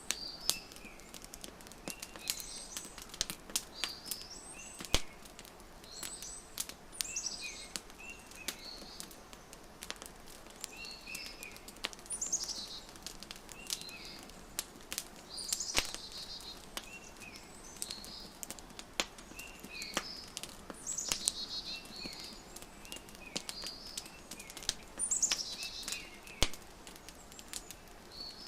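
Wood fire crackling, with frequent sharp pops, under a bird chirping short high phrases every couple of seconds.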